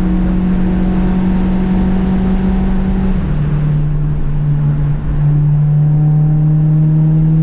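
Honda Civic engine running hard at a steady pitch on track. About three seconds in, the engine note drops to a lower steady pitch and holds there. A hiss over the engine fades out at about the same time.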